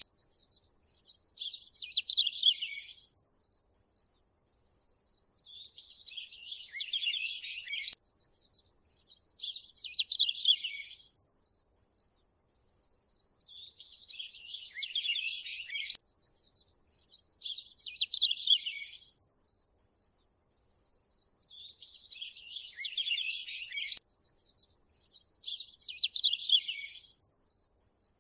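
Nature ambience: birds chirping in short bright phrases about every four seconds over a steady high hiss, the same pattern of calls repeating every eight seconds with a faint click at each repeat, as a seamless loop does.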